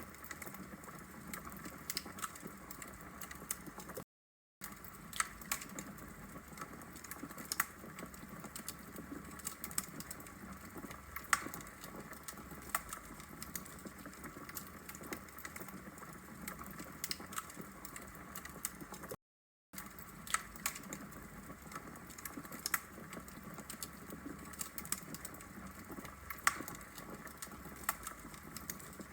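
Wood fire crackling in a fireplace: irregular sharp pops and snaps over a steady soft hiss. The sound cuts out completely for about half a second twice, a few seconds in and again about two-thirds of the way through.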